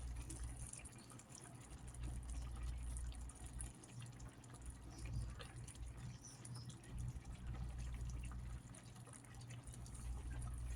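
Seasoned chicken cooking in a pot, with faint bubbling and small crackles over a low steady hum.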